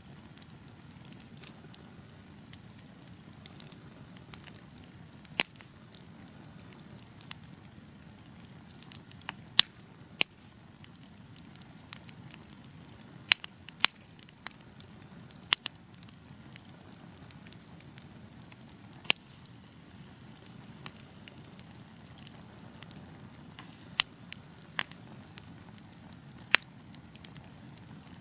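Wood fire burning in a fireplace: a steady low rumble of flames with sharp crackles and pops at irregular moments, about a dozen loud ones.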